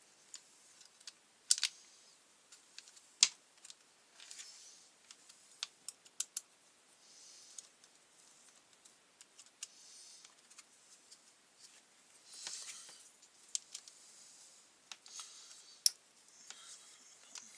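Irregular sharp clicks, taps and short scrapes of hand tools on the plastic housing of a brush cutter as it is taken apart, with three louder knocks scattered through.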